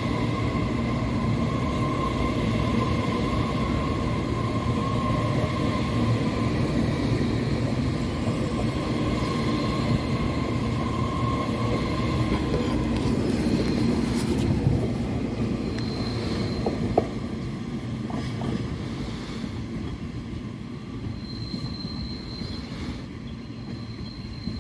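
TRA EMU3000 electric multiple unit train running along the platform: a steady rail rumble with a held high whine, fading in the second half. A single sharp click sounds about two-thirds of the way through.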